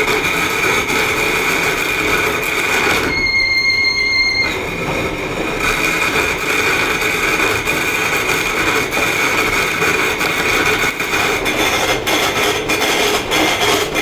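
Electric power tool grinding stone: a steady motor whine under loud grinding noise. About three seconds in, the grinding noise drops for over a second, leaving only the motor whine, as if the tool is off the stone and running free, then contact resumes.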